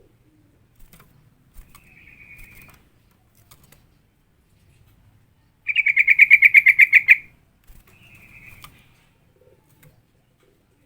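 Trucukan bulbul calling: a short, faint chattering phrase, then a loud, rapid trill about halfway through, then another faint phrase.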